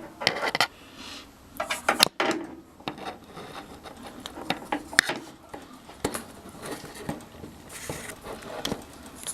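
Metal burner assembly of a gas water heater clinking and scraping against the burner compartment as it is worked into its slot, a run of irregular knocks with the sharpest about two seconds in and again near five seconds.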